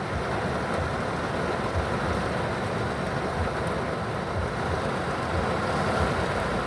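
Heavy rain falling steadily on the roof of a car, heard from inside the cabin.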